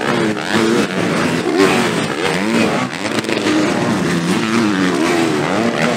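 Several motocross bikes racing together, their engines revving up and down with gear changes, the pitches overlapping and rising and falling throughout.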